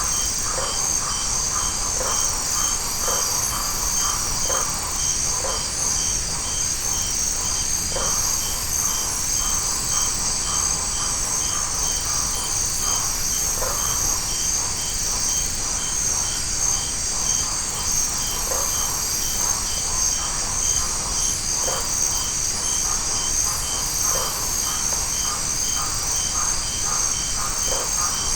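Night insect chorus in tropical forest: a dense, steady high-pitched drone of crickets, with one regular chirp ticking about three times a second and scattered short, lower calls breaking through.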